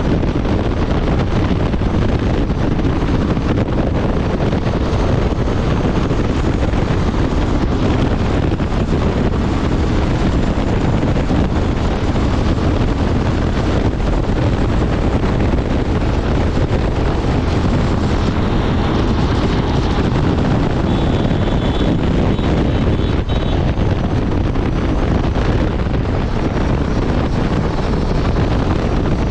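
Honda Transalp 750's 755 cc parallel-twin engine and exhaust running at steady highway speed, mixed with heavy wind rush on the microphone.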